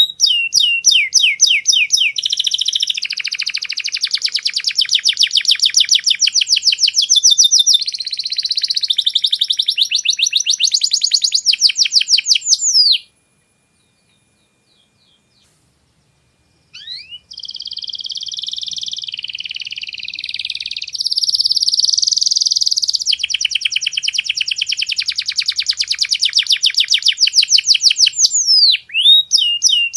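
Domestic canary singing long runs of rapid high trills and rolls, switching between different trill types. It breaks off for about four seconds midway, then starts again.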